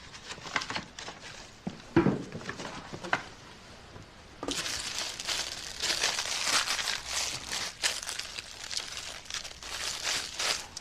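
Plastic food packaging crinkling and rustling as it is handled and opened. There are a few light clicks at first, then dense, steady crinkling from about four and a half seconds in.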